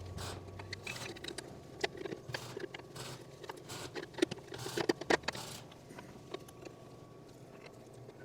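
Hand work on engine parts: irregular clicks, knocks and short clatters of tools and metal pieces being handled and fitted, busiest in the first five seconds and thinning out after.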